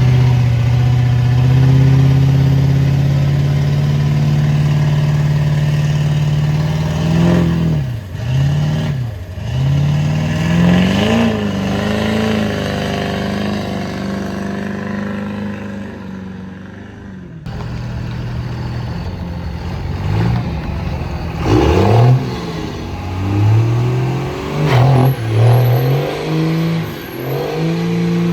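Pickup truck engine held at a steady high speed, then revved up and down in a string of quick blips. After a brief quieter lull about halfway through, it revs again in rapid rises and falls.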